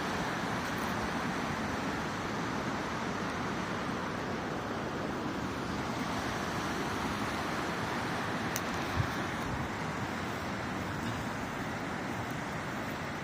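Steady rushing of flowing water, an even wash of noise with no swells, and a single brief click about nine seconds in.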